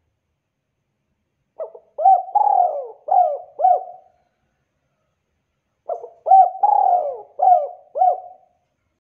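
Spotted dove cooing: two matching phrases about four seconds apart, each a short lead-in followed by a run of several coos.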